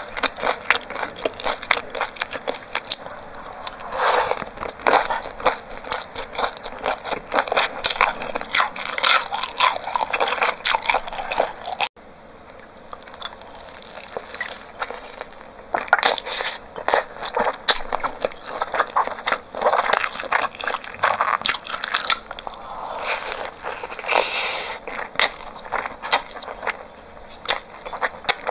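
Close-miked eating sounds: crackly chewing and crunching of a seafood-scallion pancake. After a sudden break about twelve seconds in, it turns to quieter biting and chewing of fried-tofu rice pockets, which builds back to dense, wet crackles.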